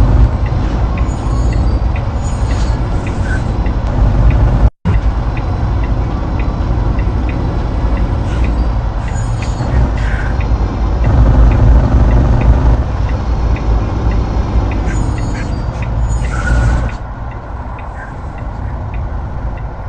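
Motor vehicle noise on a road: a heavy, steady low rumble of engine and tyres, broken once by a sudden cut about five seconds in, and quieter for the last few seconds.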